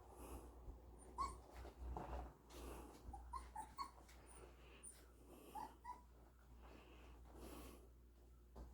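Portuguese Water Dog puppies at play, faint: a scatter of short high squeaks and whimpers, mostly in the middle stretch, between soft snuffling breaths.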